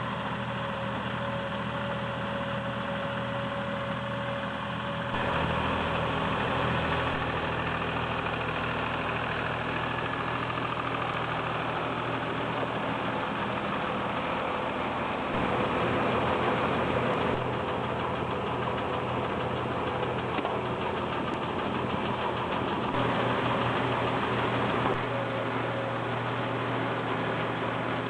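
Tractor engine running steadily while powering a mini round baler. The note changes and grows a little louder about five seconds in, and again around fifteen seconds.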